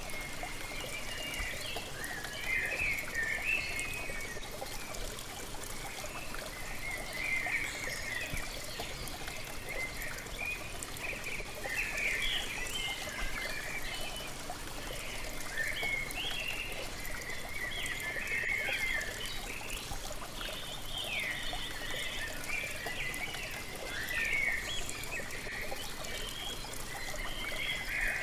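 Steady rushing and trickling of a waterfall, with small birds chirping and twittering on and off over it.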